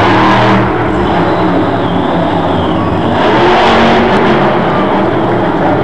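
Blue Thunder monster truck's engine running hard under throttle, with a louder surge of revving about three seconds in.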